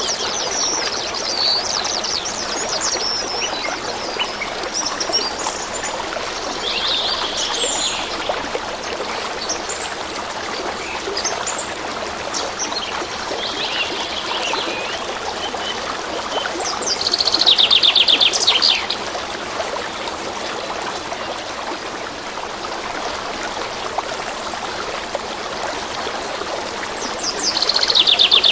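A forest stream running steadily, with small songbirds chirping over it. Twice, about seventeen seconds in and again at the very end, a bird gives a loud, fast trill of rapidly repeated notes.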